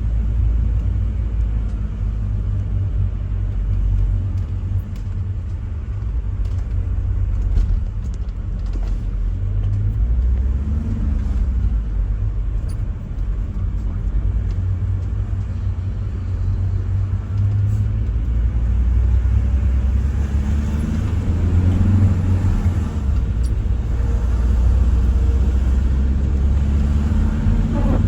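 Steady low rumble of a motor vehicle running, with a few brief rises and falls in engine pitch.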